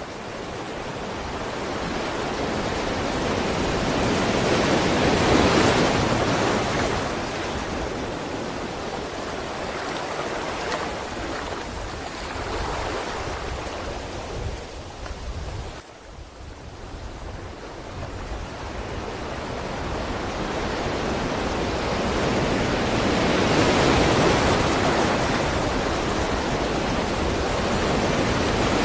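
Sea waves breaking on the shore: a continuous rush of surf that swells slowly to two loud peaks and ebbs between them, with a brief drop in level just past halfway.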